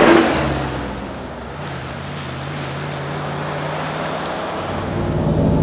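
1975 Range Rover Classic's 3.5-litre carburetted V8 passing close by with a rush at the start, then driving away with a steady engine note. The sound fades a little about a second in and swells again near the end.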